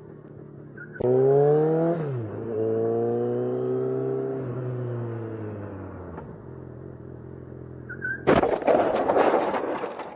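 A motorcycle engine revs up about a second in, drops back, then runs on with its pitch slowly sinking as the bike slows. About eight seconds in comes a loud, noisy crash lasting nearly two seconds: a car rear-ending the stopped motorcycle.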